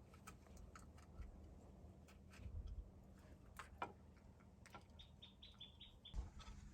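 Faint scattered ticks and clicks, then a quick run of about seven short, high bird chirps about five seconds in.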